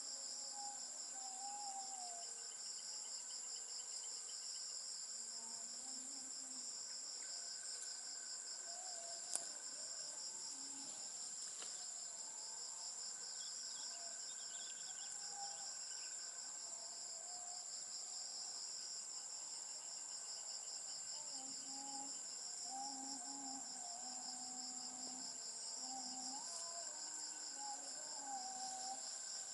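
Rainforest insects trilling steadily in a dense, layered chorus, with lower wavering calls coming and going beneath it. A single sharp click sounds about nine seconds in.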